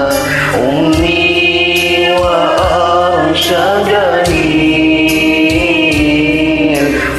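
Karaoke singing of an Arabic nasheed over a backing track: a voice holds long notes that slide up and down, with a drum beat underneath.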